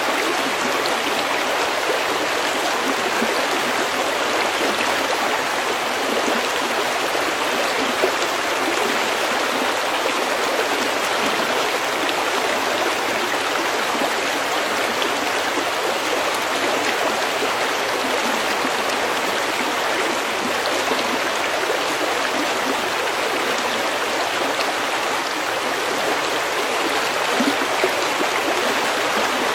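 Small stream flowing over pebbles: a steady, even babble of running water.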